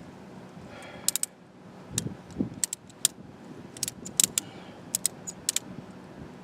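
Irregular sharp metallic clicks and clinks, several in quick pairs or threes, over light wind noise.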